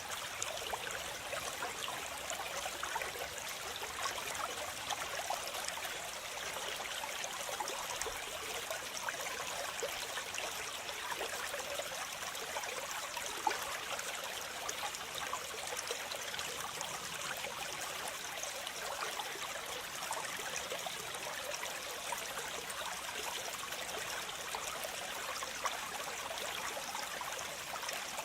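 Waterfall: a steady rush of falling water, mostly high with little low rumble, and small splashes scattered through it.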